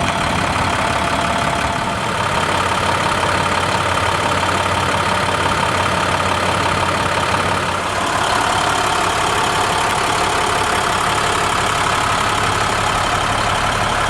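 Truck engine of an International 4300 Durastar idling steadily, with a whining tone over it that shifts in pitch about eight seconds in.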